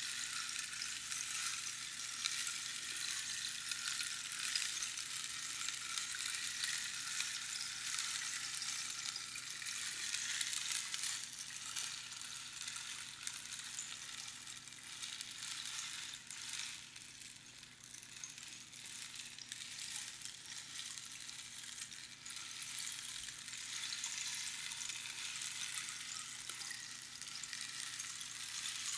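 Rainstick: small pebbles or beans trickling down through the pins inside the hollow tube, a dense crackling patter like falling rain. The flow thins out a little over halfway through, then swells again as the stick is turned.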